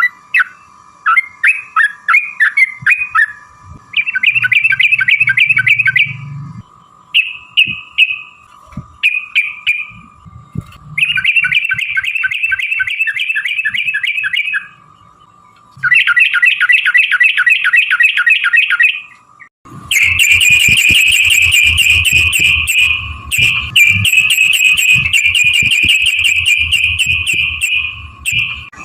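Yellow-vented bulbul (trucukan) singing in rapid chattering rolls: bursts of fast repeated notes a few seconds long with short breaks between them, then a longer unbroken roll through the last third.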